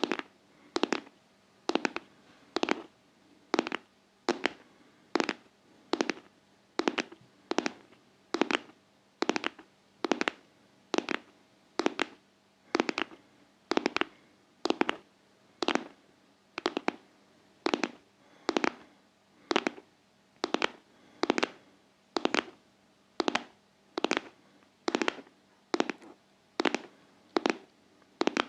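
ASMR tapping on a hard surface: quick clusters of sharp taps in a steady rhythm, a little more than once a second, like a heartbeat.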